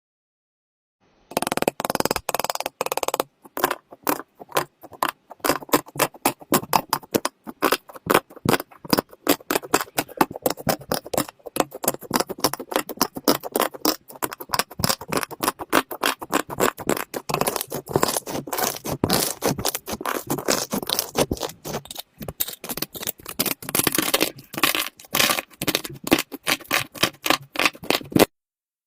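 Slime being worked by hand, giving a dense, irregular run of sharp crackles and pops with a couple of brief breaks.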